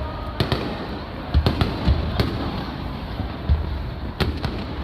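Aerial firework shells bursting, a string of sharp cracks with deep booms, about five in under five seconds, over a steady background din.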